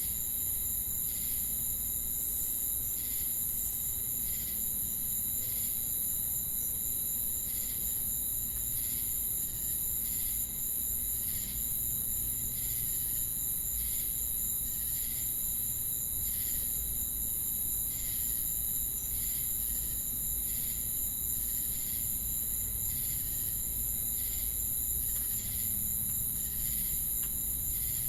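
Night insect chorus of crickets and cicadas: a steady, high-pitched buzzing drone with evenly repeated cricket chirps about once a second.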